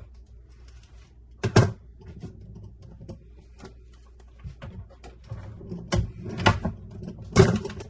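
A series of knocks and thumps of wood being handled, with lighter clicks between: a single loud knock about a second and a half in, then three more close together near the end.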